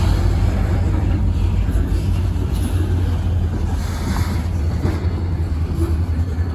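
Diesel locomotive engines of a Wheeling & Lake Erie freight train rumbling steadily, a deep low drone with no break.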